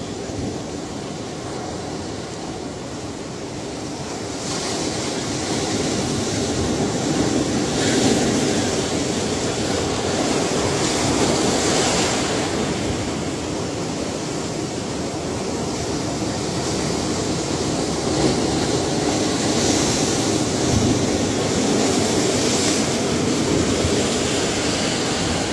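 Ocean surf: waves breaking and washing in as a continuous rushing noise that swells about four seconds in, with louder hissing surges every few seconds.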